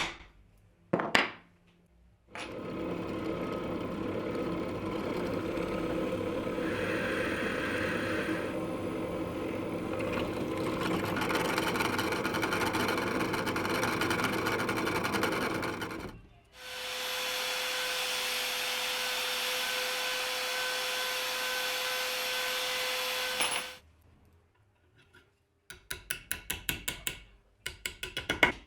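A power tool working wood for about fourteen seconds, followed by a second power tool with a steady whine for about seven seconds. Near the end come a quick run of sharp taps.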